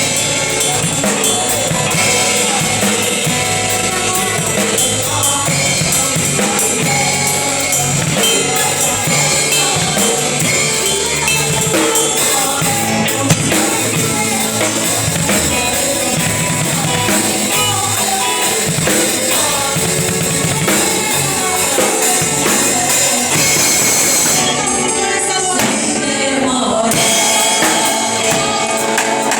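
Live gospel worship music: a band with a drum kit playing loud and continuous under singing. For a couple of seconds near the end the bright top of the sound drops away, then comes back.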